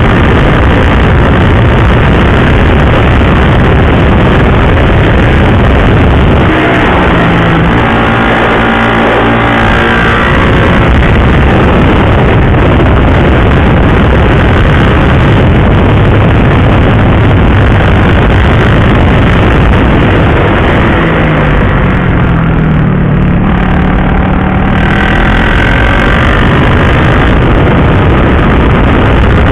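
Heavy wind rush on the camera while riding at speed, with a motorcycle's engine running under it. The engine's pitch clearly rises and falls about seven seconds in and again after about twenty seconds.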